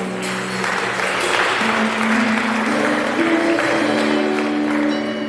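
Congregation applauding, with instrumental music holding sustained notes underneath that step up in pitch.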